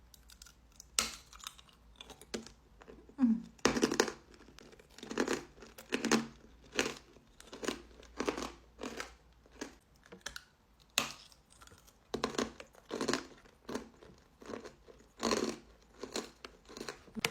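Hard ribbon candy being crunched and chewed in the mouth: a long run of sharp, irregular crunches, about one or two a second, the loudest a few seconds in and again toward the end.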